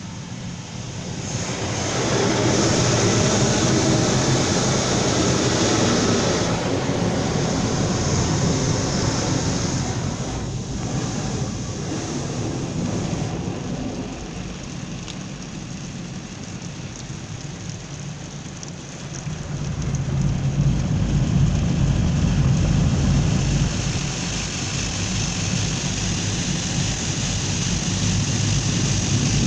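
Car wash machinery at work: a steady rush of spraying water, joined about two-thirds of the way in by a heavier, pulsing machine rumble.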